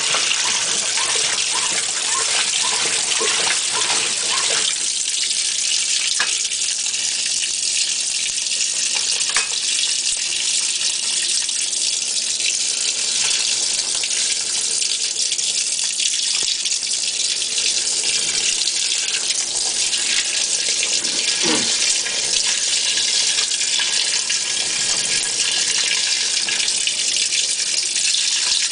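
GE Hotpoint top-load washer filling with water in its rinse cycle while the agitator churns hard in only about five inches of water: a steady rush of incoming water with sloshing, a little busier in the first few seconds. It is a fast, hard agitation where the owner expects a slow one, and it is tearing clothes.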